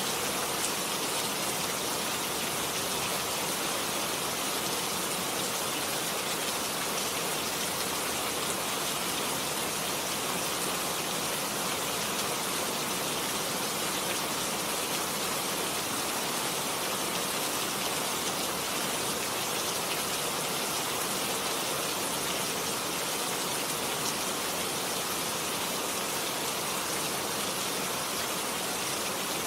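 Steady rain falling, an even hiss of drops without change or pause.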